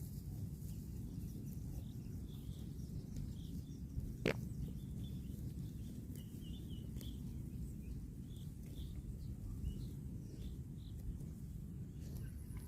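Outdoor background noise: a steady low rumble with faint scattered bird chirps, and a single sharp click about four seconds in.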